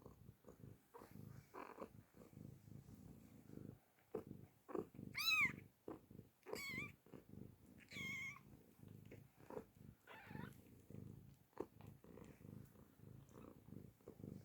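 Mother cat purring steadily, with a few short, high-pitched kitten mews in the middle, the first the loudest.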